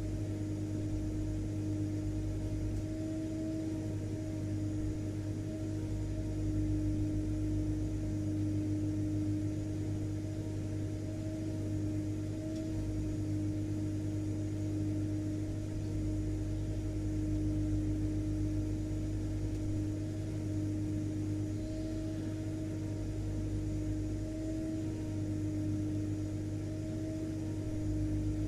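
Vacuum cleaner running steadily, its motor giving a constant hum and whine over the rush of air.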